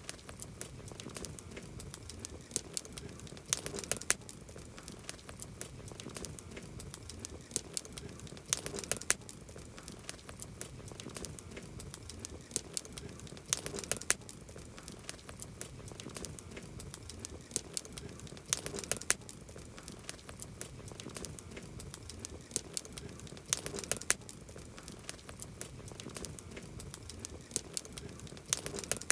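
Campfire of burning wood crackling, with a constant scatter of sharp pops and snaps. A denser, louder flurry of crackles comes about every five seconds.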